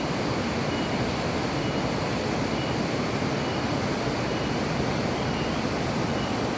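A steady, even rushing noise, with faint short high tones repeating about once a second.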